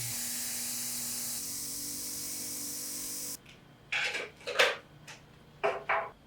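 Steady spray hiss that stops abruptly about three seconds in, followed by a few short rubbing or handling sounds.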